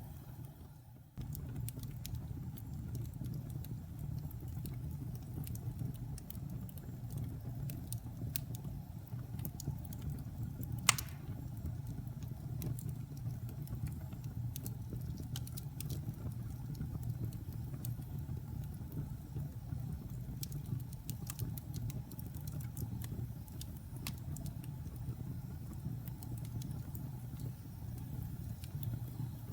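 Wood fire burning in a fireplace: a steady low rumble of flames with scattered crackles and one loud pop about eleven seconds in. The sound briefly drops away about a second in, then resumes.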